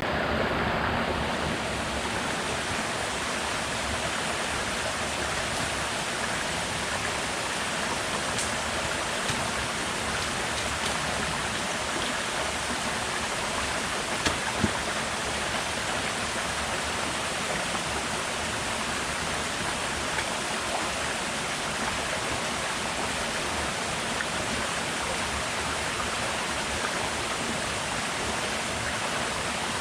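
Steady rushing water noise, with a couple of faint ticks about halfway through.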